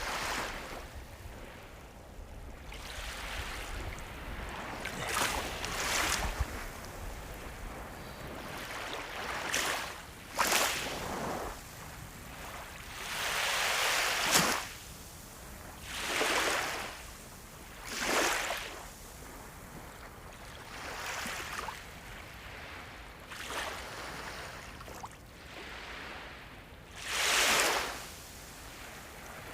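Sea waves washing in: a steady hiss of water with repeated swells of rushing surf, one every two to three seconds.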